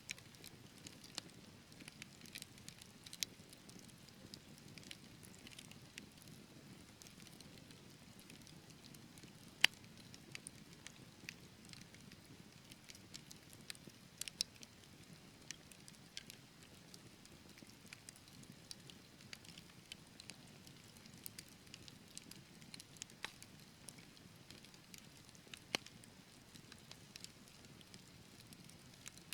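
Wood fire burning in a fireplace: irregular crackles and pops from the burning logs over a soft low rumble of flames, with one sharper snap a little under ten seconds in.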